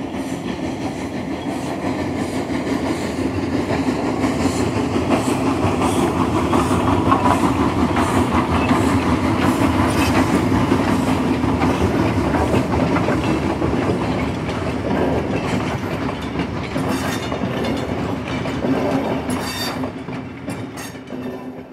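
Talgo sleeper train running along the track, heard from inside the carriage: a steady rumble of wheels on rails with clickety-clack, and a run of sharper clicks a few seconds before the end.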